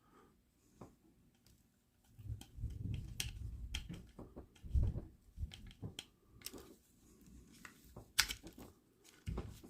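Small plastic parts being handled: light clicks, taps and rubbing as a tiny battery and its wiring are pushed into a micro RC car's battery compartment, starting about two seconds in, with a few sharper clicks near the end.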